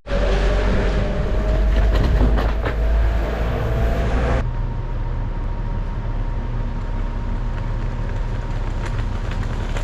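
Electric scooter riding: a heavy wind-and-road rumble with a motor whine that rises slowly in pitch, then, about four and a half seconds in, a steadier stretch with an even, higher whine over a low hum.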